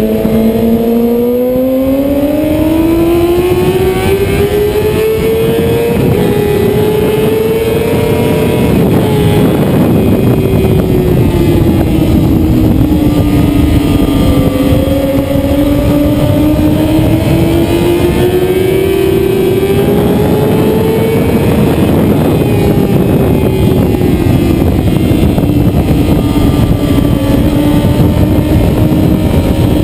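Motorcycle engine running hard on a race track, loud and continuous, its pitch climbing and dropping back several times as the throttle opens and closes.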